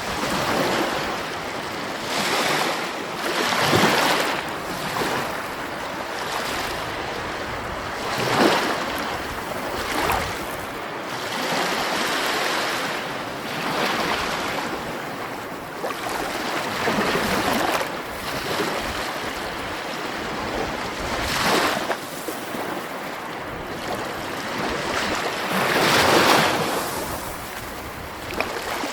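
Sea waves breaking and washing up the shore, a steady hiss that swells into a louder surge every few seconds, the biggest near the end.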